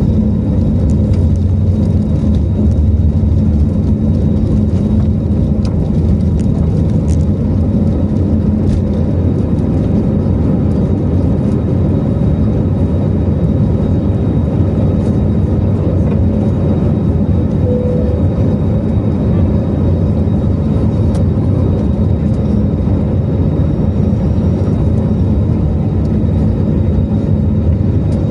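Airliner during a landing, a loud, steady low rumble of engines and rushing air that holds evenly throughout.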